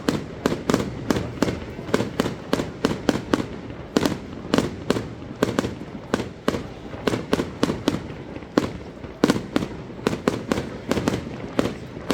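Fireworks going off in a constant barrage: sharp bangs and cracks, several a second, overlapping one another.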